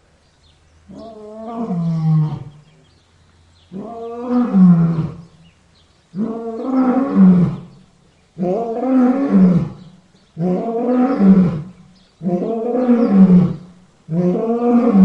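Lion roaring: a run of about seven long roars one after another, each about a second and a half and dropping in pitch at its end, with the pauses between them growing shorter.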